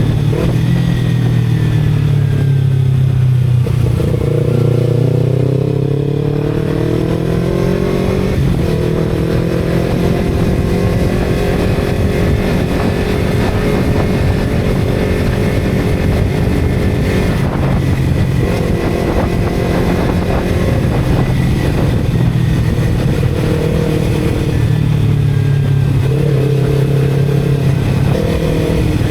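Motorcycle engine running under way, its pitch climbing for a few seconds, dropping suddenly, then holding steady for long stretches with a few more rises and falls.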